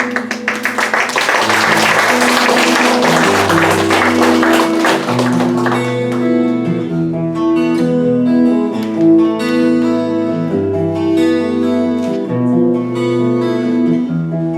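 Acoustic guitar playing the introduction to a song. Audience applause runs over the guitar for about the first six seconds and then dies away.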